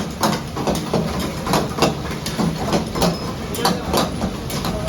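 Irregular metallic knocks and clatter, several a second, over a steady low machine hum.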